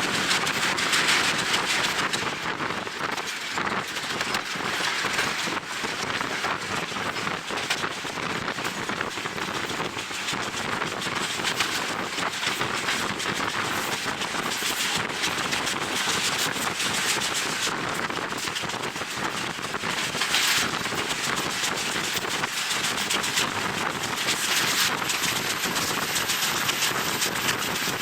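Wind buffeting the microphone over the running noise of a moving passenger train, a dense crackling rattle with a few stronger gusts.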